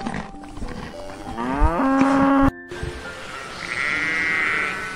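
A cow mooing once, a drawn-out call that cuts off abruptly, followed by a fainter, higher sheep bleat a second or so later.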